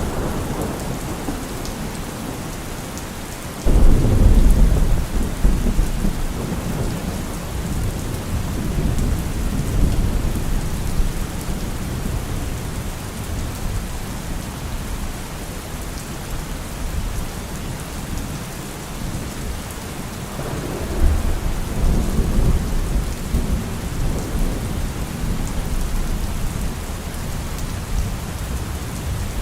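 Heavy rain falling steadily on a car roof, with thunder rolling twice: a sudden, loud low rumble about four seconds in that lasts several seconds, and a second rumble about two-thirds of the way through.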